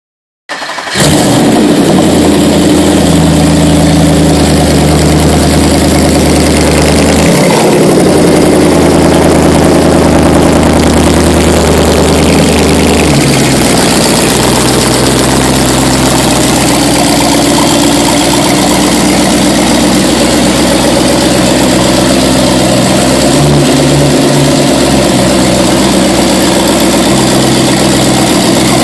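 Twin-turbocharged Audi S5 engine starting about a second in and settling into a steady, loud fast idle. Its idle steps down to a lower speed about halfway through and then runs on steadily.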